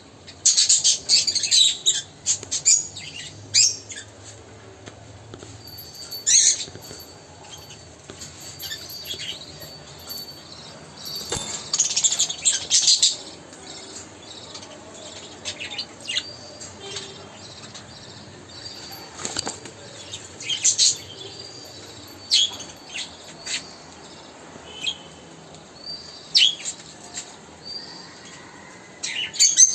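Pet birds chirping and flapping their wings in short, irregular bursts, some loud, with quieter stretches between.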